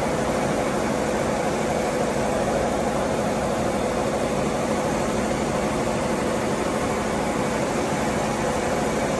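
Madef 3C 16x11 reciprocating refrigeration compressor running steadily: a constant mechanical hum with a steady tone and even noise, no change in level.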